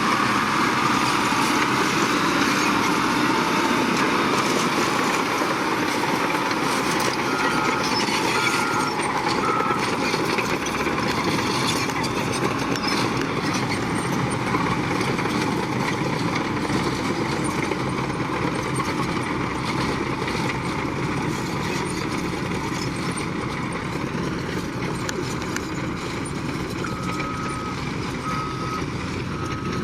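Heavy construction machinery running steadily, with a reversing alarm beeping: three beeps about a third of the way in, then regular beeps again near the end as a machine backs up.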